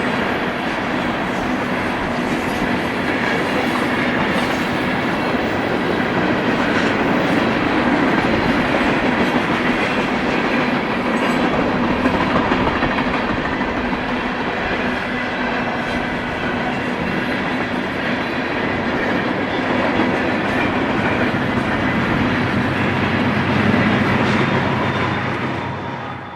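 BNSF manifest freight train rolling past, a steady loud rumble of steel wheels on rail that fades out at the very end.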